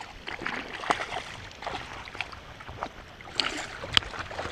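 Creek water splashing and sloshing, with a few sharp clicks or taps, the sharpest about a second in and near the end.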